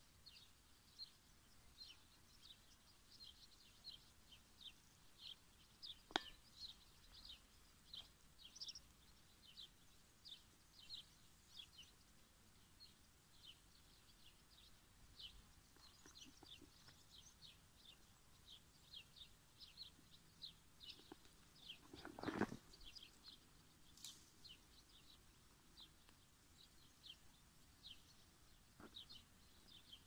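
Faint small-bird chirping: short high chirps, two or three a second, going on steadily. A sharp click comes about six seconds in, and a brief louder thump about twenty-two seconds in.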